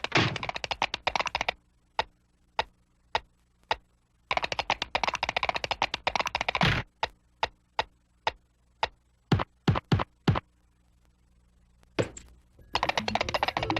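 Runs of rapid clicking taps, like fast typing, broken by single sharp taps and a few louder knocks near the middle.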